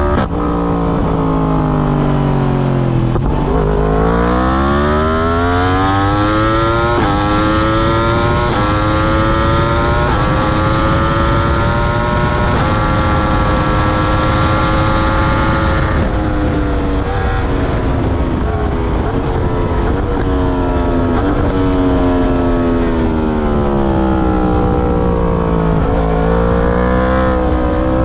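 2021 Yamaha R1's crossplane inline-four, through an Akrapovic full titanium exhaust with its dB killer fitted, heard from onboard at speed. Revs drop at first, then the engine pulls up through the gears with quick upshifts and holds high revs. It winds down with downshifts under braking and climbs again near the end.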